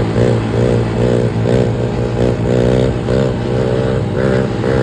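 Pit bike engine running, its note rising and falling in quick throttle blips about two or three times a second, with a steadier low engine note underneath.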